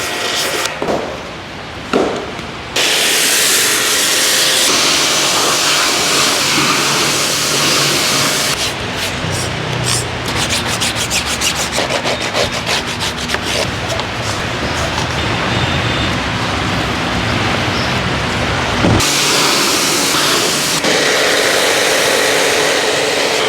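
Car wash: water spraying and brushes rubbing against a car. The spray sets in sharply about three seconds in, and a rapid run of slapping strokes follows in the middle.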